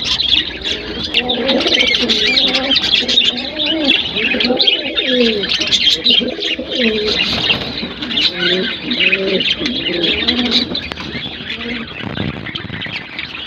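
Budgerigars chattering: a dense, unbroken stream of quick high chirps and warbles, with lower calls underneath that rise and fall in pitch, thinning out near the end.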